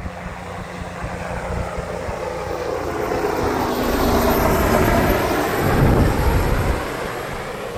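Helicopter flying past overhead, growing louder to a peak about five seconds in, its pitch dropping as it goes by, then fading away.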